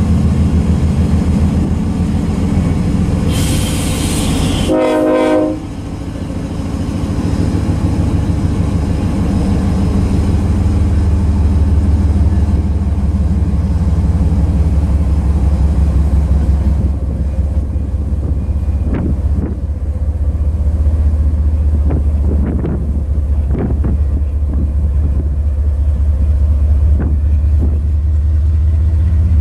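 Freight train cars rolling past: a loud, steady low rumble of steel wheels on rail with a fast, even clatter. About four to five seconds in there is a brief pitched tone. From the middle on, scattered sharp clanks mix in.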